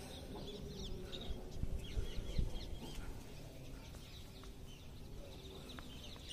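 Small birds chirping: many short, quick calls, over a low rumble with a couple of brief knocks.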